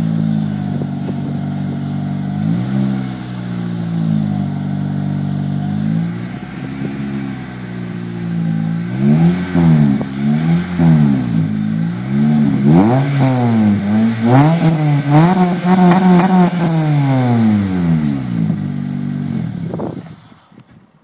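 Acura RSX's four-cylinder engine through a Megan Racing Drift Spec aftermarket exhaust, idling and then revved in blips: a few slow ones at first, then quicker, higher revs in the middle, before settling back to idle and cutting off near the end.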